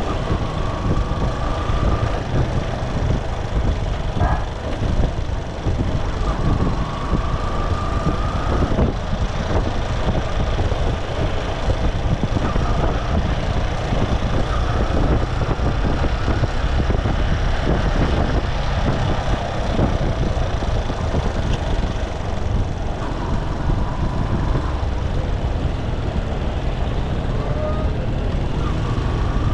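Motorcycle engine running steadily while riding, with constant road noise.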